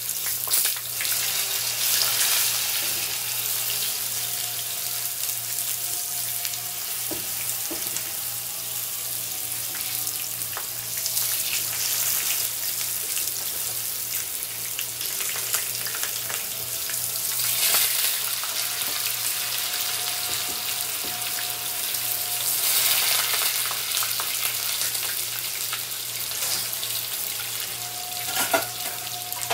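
Blocks of tofu frying in hot oil in a pan, browned on one side and turned over: a steady sizzle that swells and eases, with a constant low hum underneath.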